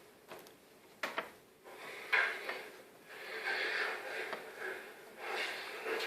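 Knocks, clatter and sliding noise of a small CNC router's aluminium frame and gantry being handled, with a sharp knock about a second in and a longer rough sliding sound in the middle.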